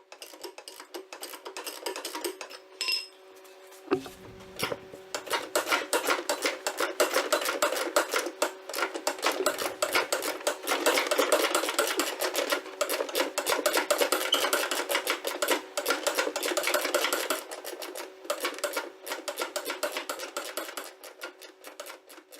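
Hand ratchet clicking rapidly as a nut is run off a suspension bolt, with metallic clinks of the socket and tools.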